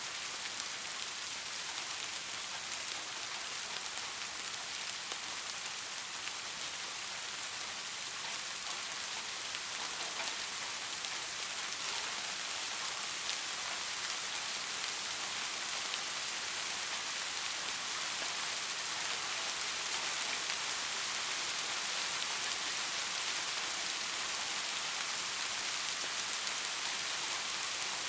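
Steady rainfall hissing on a surface, with scattered individual drops ticking through it.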